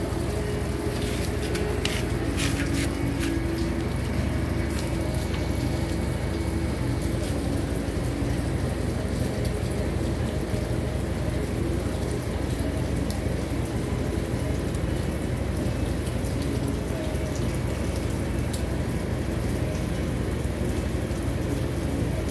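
Steady rain falling, an even hiss with a few faint clicks about two seconds in.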